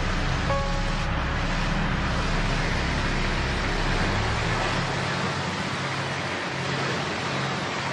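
A car engine running, a steady deep rumble; the deepest part of it drops away about five seconds in.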